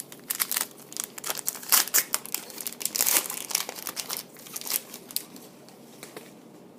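Plastic wrapper of a sports-card pack crinkling and tearing as it is ripped open, with the cards handled. The crackling is dense for about five seconds, then dies down.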